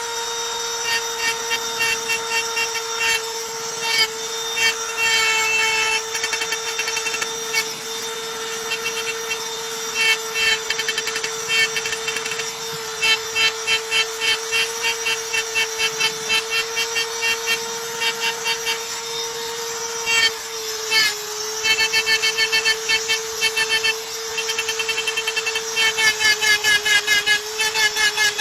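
Electric drill running steadily, with stretches of rapid, high-pitched squeaking chirps repeating about four times a second.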